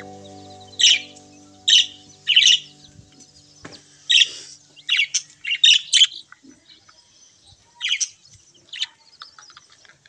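Small birds chirping in short, sharp, high-pitched calls, some in quick runs of two or three, while background music fades out over the first few seconds.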